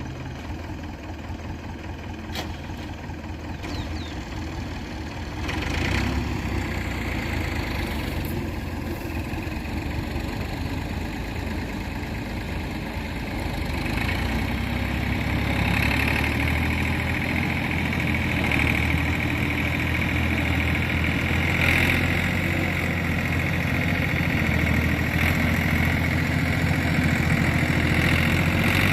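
Diesel tractor engine running steadily while hauling a heavy load of mud, growing louder about five seconds in and again about fourteen seconds in.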